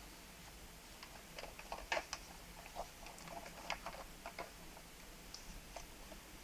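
Irregular light clicks and taps of hard plastic toy parts being handled, with a loudest click about two seconds in.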